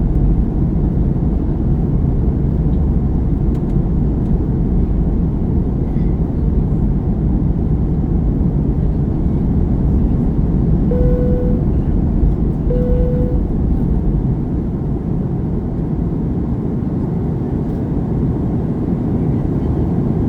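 Steady low roar of an airliner cabin in flight during descent, the noise of the engines and the air rushing past. Two short tones of the same pitch sound about a second and a half apart near the middle.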